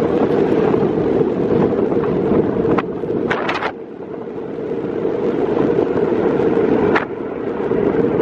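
Strong wind buffeting the microphone: a steady low rushing broken by a few gusty knocks, about three seconds in and again about seven seconds in.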